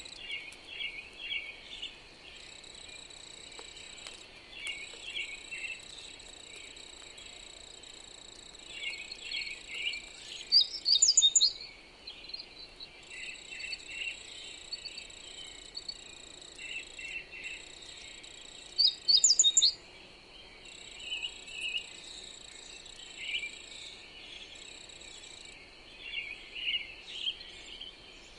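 Songbirds chirping and singing in short repeated phrases over a steady high-pitched insect trill and a soft hiss of wind. Two louder, higher bursts of song stand out, about eleven and nineteen seconds in.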